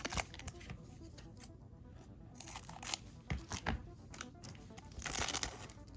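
Paper trading cards being handled and slid against one another, with short scattered clicks and a louder rustle about five seconds in.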